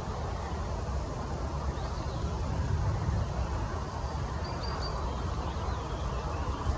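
Faint, short, high bird chirps in a songbird's calls, with a quick run of three notes about four and a half seconds in and a few scattered falling notes, over a steady low rumble.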